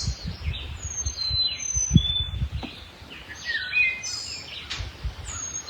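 Several songbirds singing and chirping: many short high whistled notes and quick down-slurred phrases, one after another. Underneath, a low rumble with a few soft low thumps, the strongest about two seconds in.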